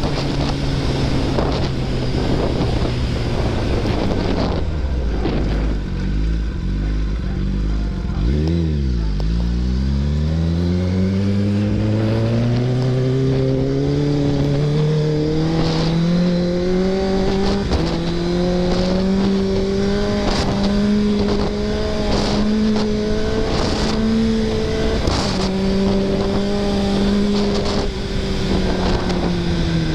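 Kawasaki ZX-10R's inline-four engine, heard from the bike with wind rush. The revs fall away early on, then climb steadily for about ten seconds as the bike accelerates, hold, and drop off near the end.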